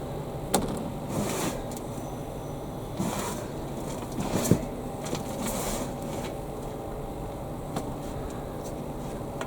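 Digging in garden soil to lift vegetables: several short scraping, rustling swishes of soil and foliage, with a sharp knock about four and a half seconds in, over a steady low background hum.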